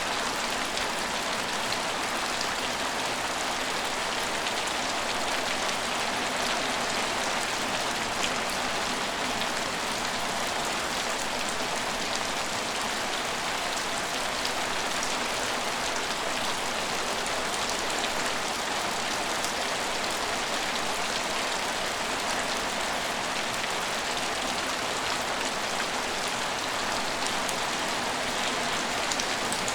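Steady rain falling, an even wash of noise with scattered individual drop ticks.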